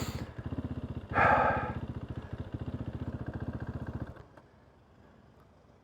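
KTM 390 Duke's single-cylinder engine idling with an even chug and a short louder burst about a second in, then cutting out abruptly about four seconds in. The engine is stalling, part of a recurring stalling problem the rider has not been able to fix.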